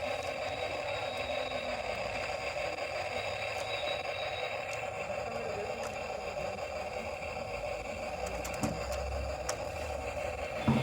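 A small electric motor running steadily with a light rattle, with a short knock near the end.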